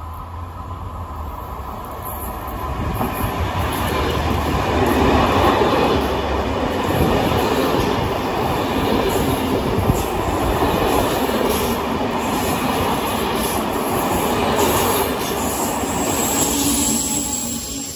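Push-pull TER train of Corail coaches passing along the platform, a steady rumble and rush of wheels on rail that builds over the first few seconds, with scattered clicks over rail joints. Near the end its BB 22200 electric locomotive, pushing at the rear, goes by and the noise tails off.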